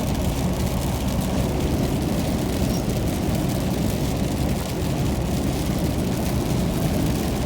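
A car driving on a wet highway in heavy rain: a steady low rumble of tyres and engine with a hiss of rain and spray over it.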